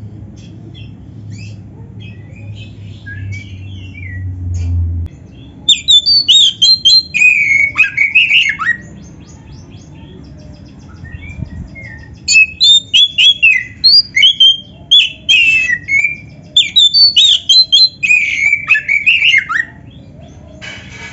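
Oriental magpie-robin (kacer) singing in loud, fast runs of sweeping, chattering notes that include mimicked phrases of other birds' songs, in three bursts with softer scattered calls between. A low steady hum stops about five seconds in.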